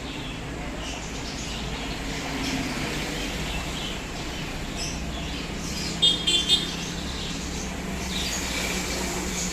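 Outdoor background of a steady low rumble with birds chirping, and a quick run of three sharp, high chirps a little past halfway, the loudest sound.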